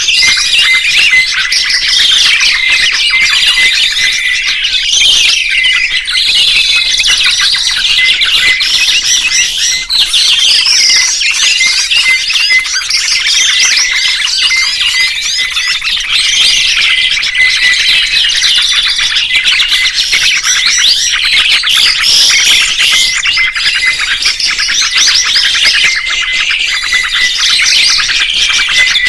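Songbird singing and chirping nonstop in rapid, tumbling warbled phrases, loud and continuous, in the style of a kicau-mania 'masteran' training recording for cage birds.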